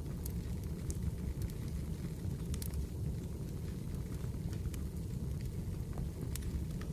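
Fireplace crackling: a steady low rumble of burning with scattered sharp little pops at irregular moments.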